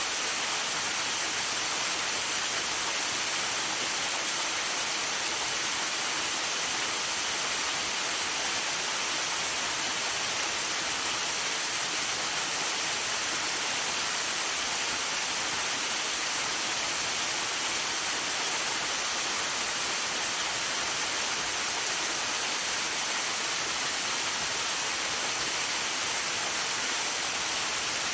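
Waterfall rushing steadily: a dense, even hiss of falling water that does not change.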